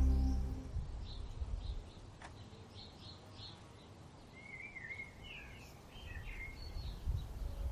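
Songbirds chirping outdoors: a series of short high chirps, then a warbling phrase a few seconds in, over a low rumbling background noise. Music fades out at the very start.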